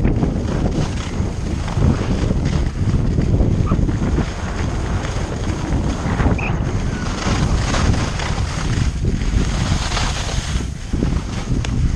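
Wind buffeting the microphone of a skier in motion, a heavy fluttering rumble, over a steady hiss and scrape of skis running across spring snow.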